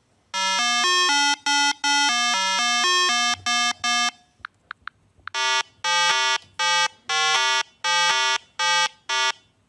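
A buzzy electronic tune of short held notes that step up and down in pitch, played in two phrases with a brief pause between them.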